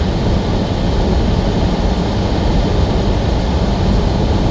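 Steady low rumble of a semi-truck driving down the road, its engine and tyre noise running evenly.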